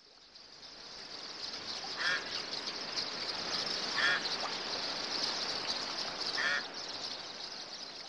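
Bird sound effect: a steady high hiss that fades in over the first second, with a short squawking bird call about every two seconds, three in all.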